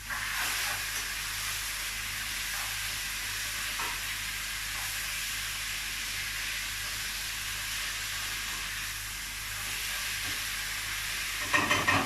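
Cut-up chicken thighs and onions sizzling steadily in a frying pan. A short, louder sound comes near the end.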